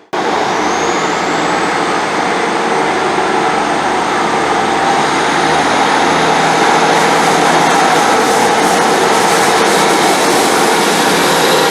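A train's engine running steadily and loudly, with a high whine that climbs over the first couple of seconds and then holds.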